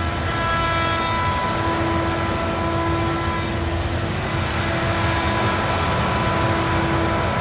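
Heavy machine's engine running steadily, with a constant low rumble and several steady whining tones over it.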